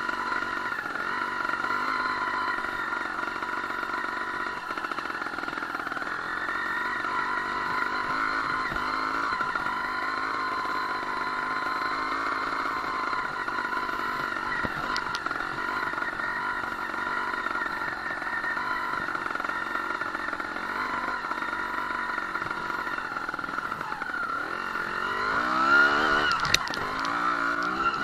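Two-stroke engine of a Sherco 290 trials motorcycle running at fairly steady revs while being ridden. Near the end the revs rise and fall and it gets louder.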